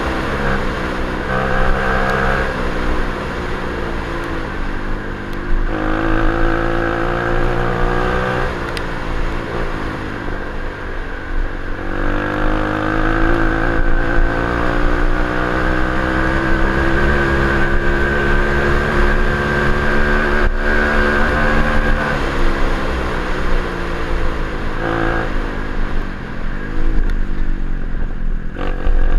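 Orion CRF37-2 125cc pit bike's single-cylinder four-stroke engine running while ridden. Its pitch rises and drops several times as the throttle is opened and closed through the gears.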